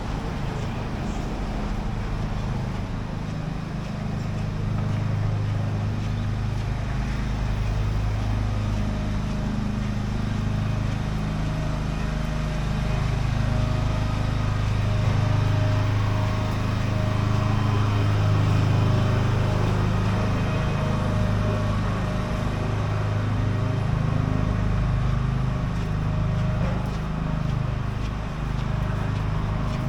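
Street traffic, with a motor vehicle's engine running close by as a steady low hum that grows louder around the middle and then eases off.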